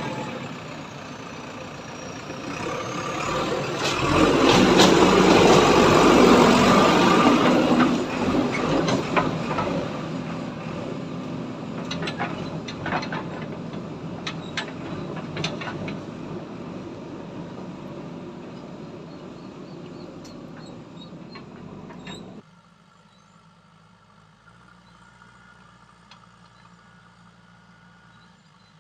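Diesel tractor engine running under load, growing loud about four seconds in as it comes close, with scattered sharp knocks and clatters, then fading; about 22 seconds in the sound drops suddenly to a much quieter engine hum.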